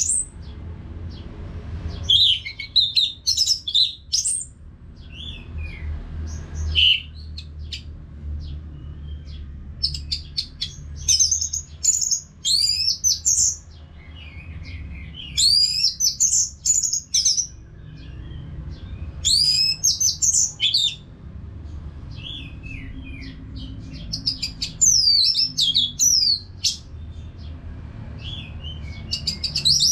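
Orange-headed thrush singing: bursts of quick, varied whistled phrases a few seconds long, with short pauses between them, over a faint steady low hum.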